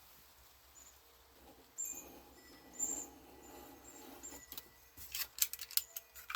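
Paper being cut on a cutting mat: a scraping pass about two seconds in, then a quick run of sharp clicks and rustles near the end. Small birds chirp in short high notes over the scraping.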